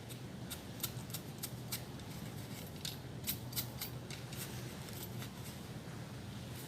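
Short crisp scraping strikes of a hand tool digging a hole into the forest floor, a few a second at an uneven pace.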